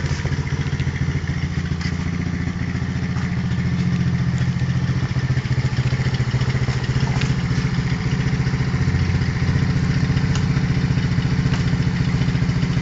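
Pit bike's small single-cylinder four-stroke engine running steadily, a little louder from about four seconds in.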